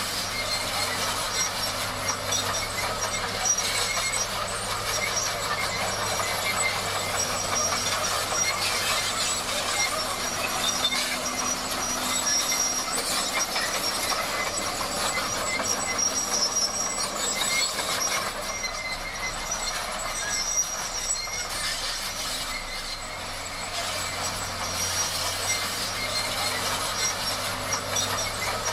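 Bulldozer at work: steady clanking and squealing of steel tracks over a low engine hum, dipping slightly in level near the end.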